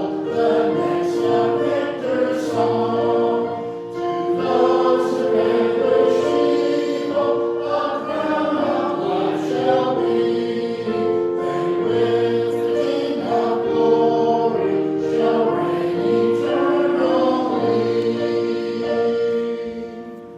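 A choir singing a hymn with instrumental accompaniment in sustained chords. The music dies away near the end.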